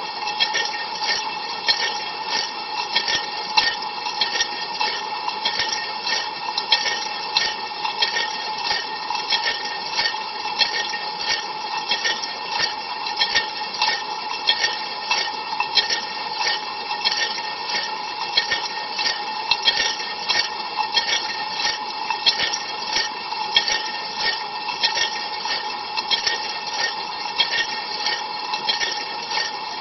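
Ariston LV 46 A IX dishwasher in its cold rinse, heard from inside the tub: a steady rush of water spraying and spattering against the walls, with many quick splashes over a constant pump hum.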